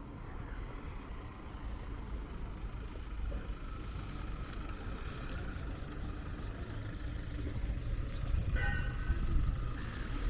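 City street traffic: a steady low rumble of passing vehicles that grows louder toward the end. About eight and a half seconds in there is a brief high-pitched sound.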